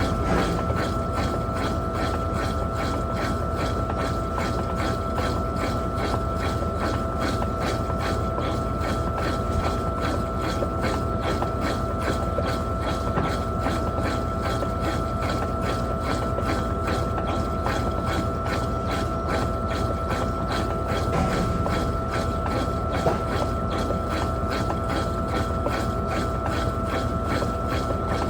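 Electrolux Turbo Capacidade Premium 15 kg top-loading washing machine running through its wash cycle: a steady mechanical rumble with a constant motor whine.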